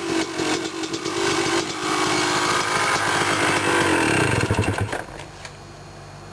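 2002 Yamaha YZ250 two-stroke dirt bike engine, just cold-started and still cold, running at high revs. About four seconds in the revs fall, and the engine settles into a quieter, steady idle.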